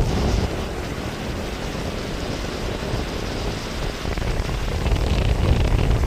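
Strong wind buffeting the microphone as a steady rush of noise, easing about a second in and gusting up again near the end.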